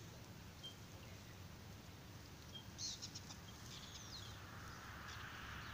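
Quiet outdoor ambience with a low steady rumble, and a few short high bird chirps about halfway through.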